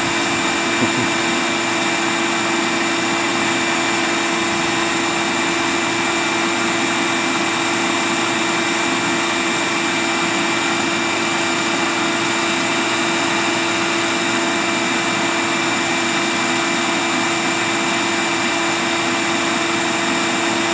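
Vacuum motor running steadily, a constant rushing hum with a fixed whine, as used to suck a honeybee swarm off branches.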